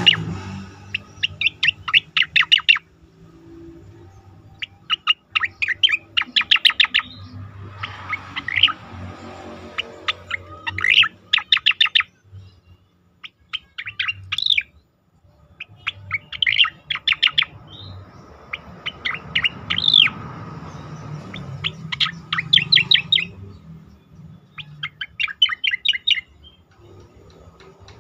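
Cica koreng (striated grassbird) singing: a run of phrases of rapid, repeated chattering notes, each lasting a second or two, with short pauses between them. A faint low hum runs underneath.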